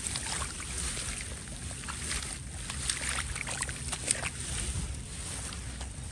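Shallow water sloshing and splashing, with many small irregular splashes and a steady low rumble underneath.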